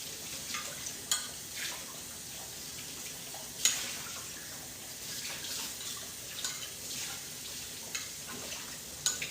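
Kitchen tap running steadily into a sink while a glass is rinsed, with a few sharp clinks, the loudest a little under four seconds in.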